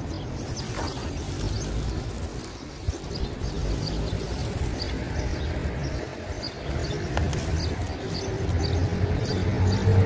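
Small birds chirping, short high chirps repeating several times a second, over a steady low rumble. Near the end a hum comes in and rises slightly in pitch.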